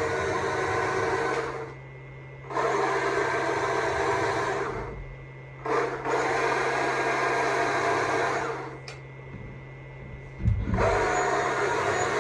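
Stihl MSA 200 C battery chainsaw carving wood, run in four bursts of about two to three seconds each, with short pauses between cuts as the trigger is released. A low thump sounds just before the last burst.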